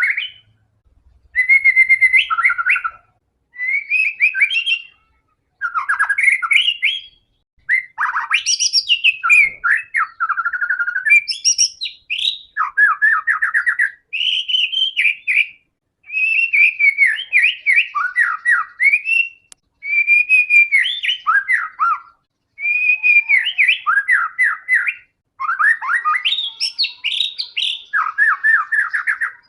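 White-rumped shama (murai batu) singing vigorously: a long run of varied phrases of whistles and fast trills, each about one to two seconds long with short pauses between.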